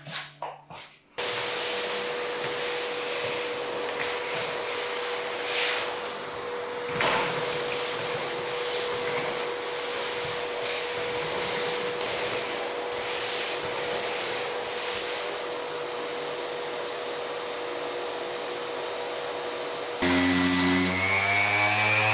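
A machine running steadily, a noisy whir with a constant hum through it. About two seconds before the end it gives way to a louder motor sound whose pitch rises.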